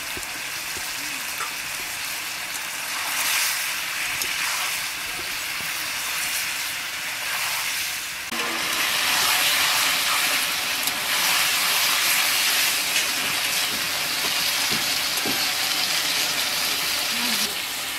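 Pumpkin pieces sizzling and hissing in hot oil in an aluminium kadai as they are stir-fried with a metal spatula, the curry at its sautéing stage; the sizzle grows louder about eight seconds in.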